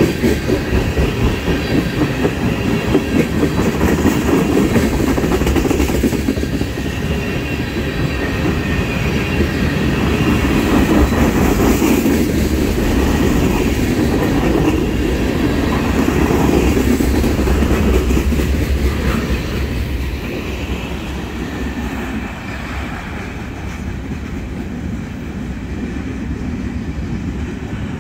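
Freight train tank cars rolling past close by, with a steady rumble and clickety-clack of steel wheels over rail joints. The sound fades in the last third as the end of the train passes and rolls away.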